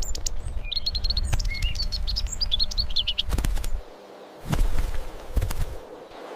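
A small bird chirping: a quick run of short, high chirps for about two and a half seconds, starting just under a second in. Under it is a low rumbling with a few sharp knocks.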